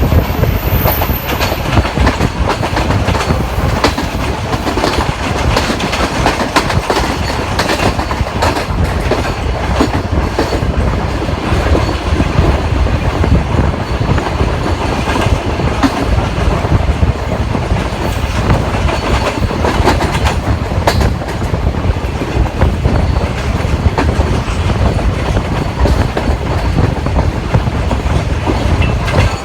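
Green Line passenger train running on the rails, a steady rumble with the wheels clicking over rail joints.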